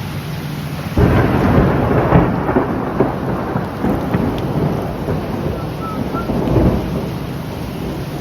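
A close thunderclap breaks sharply about a second in and rolls on as crackling, rumbling thunder for several seconds before fading, over steady heavy rain.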